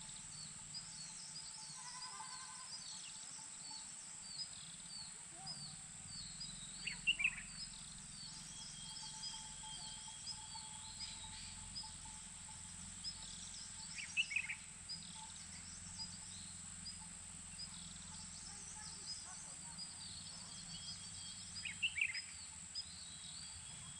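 Small birds chirping continually, with three louder short bursts of calls about seven seconds apart, over a steady high-pitched hum.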